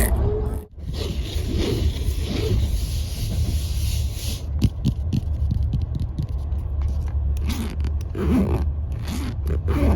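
Steady low rumble of a moving passenger train, with close-up scraping and rubbing of an object handled for an ASMR trigger. The sound cuts out briefly under a second in.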